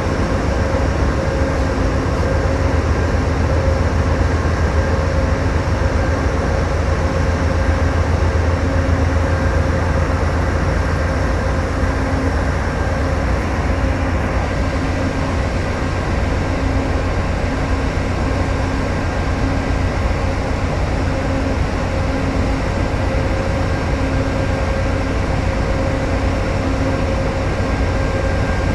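Amtrak train's diesel locomotive engine running steadily: a constant low rumble with a steady hum over it.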